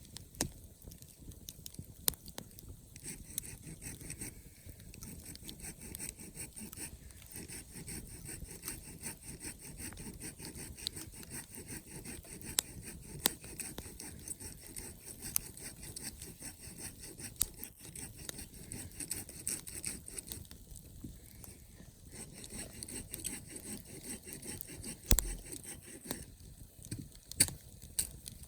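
Wood campfire crackling and popping steadily, with sharper loud pops now and then, the loudest a little before the end.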